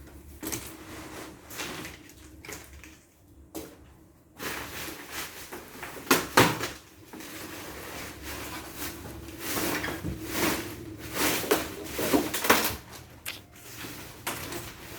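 Handling noises: a run of knocks and clicks, with a stretch of rustling and scraping from about four seconds in.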